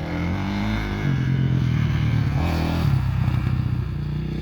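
Dirt bike engine running under throttle, its pitch stepping up about a second in and then holding steady.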